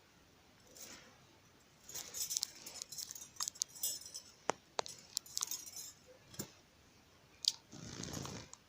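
Scattered light clicks and taps with soft rustling, as a pet bird moves about and pecks.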